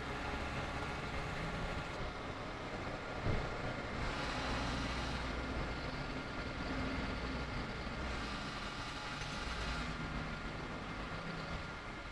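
Yamaha Road Star XV1600's V-twin engine running while riding, its low hum stepping up and down in pitch, with rushing wind noise that swells and fades. A single knock about three seconds in.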